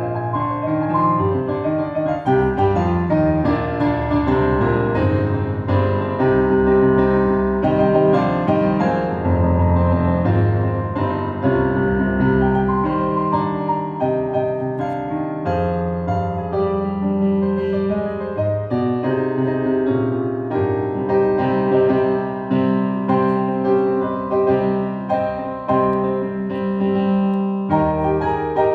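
Piano playing a dense, continuous passage of many quickly changing notes across the bass and middle range.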